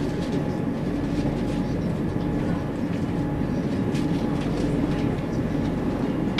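Passenger train running steadily over the Forth Bridge, heard from inside the carriage: an even rumble of wheels on rail with a faint steady drive tone and a few light clicks.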